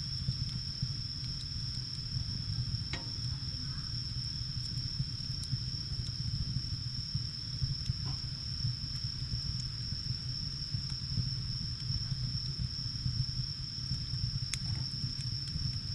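Wood fire burning with a steady low rumble and a few sharp crackles, one about three seconds in and one near the end, over a steady high-pitched whine.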